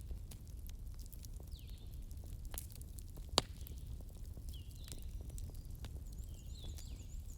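Wood fire burning, with a steady low rumble of flames, scattered crackles and one sharp pop about three and a half seconds in. Short high chirps recur every second or two, with a quick run of them near the end.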